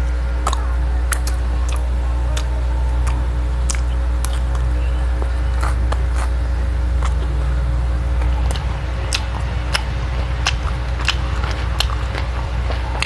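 Close-miked chewing of a soft burger mouthful: irregular wet mouth clicks and lip smacks. Under it runs a steady low hum.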